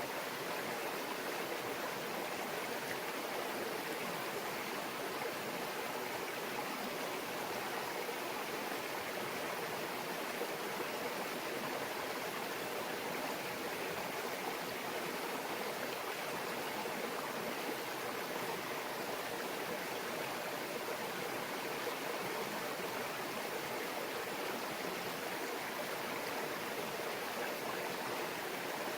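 A small mountain stream babbling and trickling steadily over rocks.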